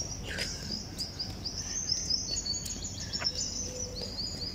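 Birds chirping, with many short, high calls repeating quickly and overlapping, over steady low background noise.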